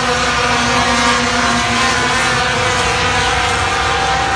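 Super Truck racing engines running on track at a steady, even pitch, with no sudden revs or breaks.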